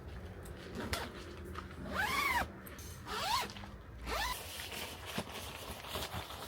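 A zipper being pulled in three quick strokes about a second apart, each with a pitch that rises and falls with the pull's speed, among small handling clicks.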